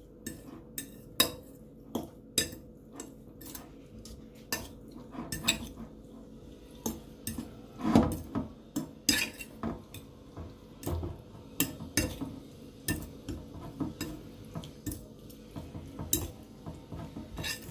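A utensil clinking and knocking against a bowl while stirring seasonings into raw chicken pieces, in irregular strikes with a louder knock about midway.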